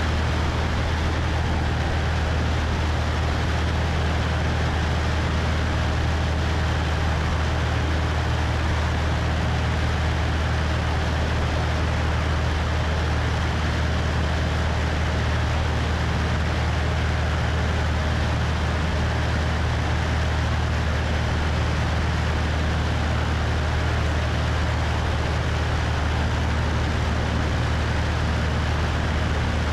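Cessna 172 engine and propeller droning steadily in flight, with wind rushing over a wing-mounted microphone. The drone holds one even pitch and level throughout.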